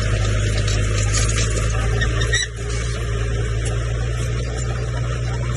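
Komatsu crawler bulldozer's diesel engine running steadily under load, a deep drone with clatter and hiss above it. About two and a half seconds in the sound dips briefly and a few short high-pitched tones come through.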